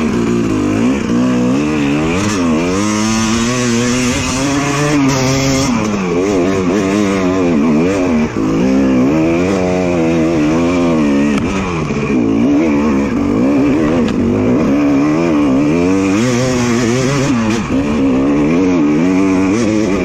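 Two-stroke dirt bike engine, close and loud, revving up and down over and over as the throttle is worked along a trail.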